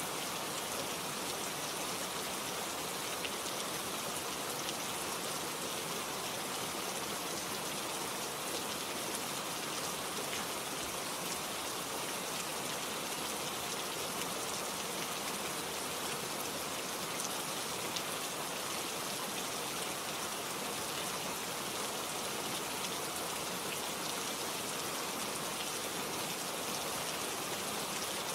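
Steady rain falling on leaves and foliage, a constant hiss with fine patter of drops.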